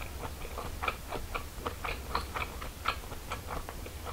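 Close-miked chewing of a mouthful of grilled wiener sausage with the mouth closed: a run of quick, wet clicks, about four a second.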